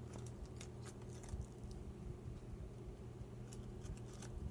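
Faint scattered taps and rustles of craft materials being handled, a few light ticks a second apart, over a steady low hum.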